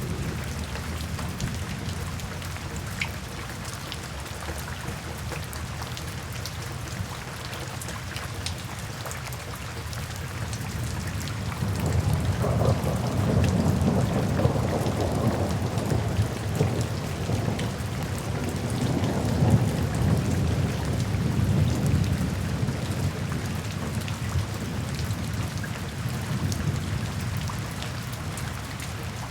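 Steady rain falling, with scattered sharp drops, and a long low rumble of thunder that swells about twelve seconds in and fades back down after roughly ten seconds.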